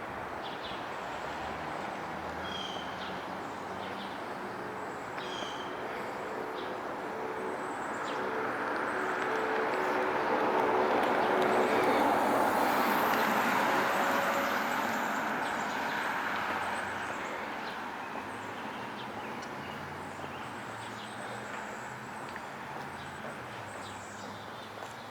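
Street traffic noise, with one vehicle passing close: its engine and tyre noise swells to a peak about halfway through and then fades away.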